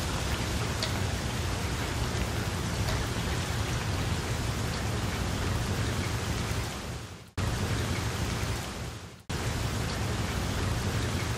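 Steady rain falling on water. Twice in the second half the sound fades down and then cuts back in abruptly.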